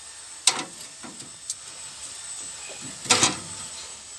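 Two sharp knocks about two and a half seconds apart, with a faint tap between them, as the newly fitted cab torsion-bar bearing bracket of a Volvo truck is checked.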